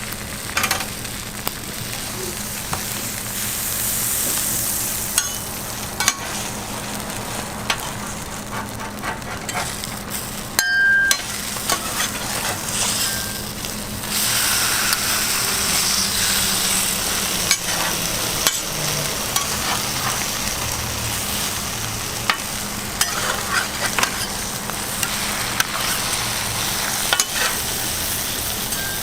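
Food sizzling on a hot cooking surface, with frequent sharp clicks of metal utensils stirring and working it. The sizzle grows louder about halfway through.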